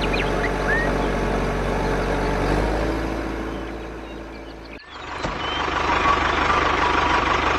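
A small vehicle's motor running steadily, fading out about three seconds in. After an abrupt cut about five seconds in, a motor runs again with a steady high tone over it and a few short chirps.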